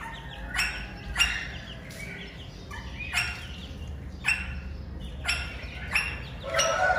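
Caged small birds calling: about six short, sharp calls spaced roughly a second apart, with softer chirps between them over a low steady hum. A longer, held call begins near the end.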